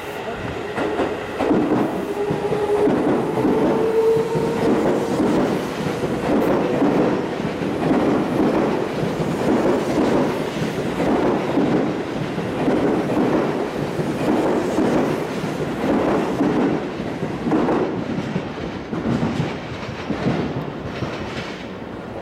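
Seibu 6000 series electric commuter train running through the station at speed without stopping. A whine rises slightly in pitch over the first few seconds, then the wheels clatter over the rail joints in a regular rhythm of roughly one beat a second, easing off near the end as the last cars clear.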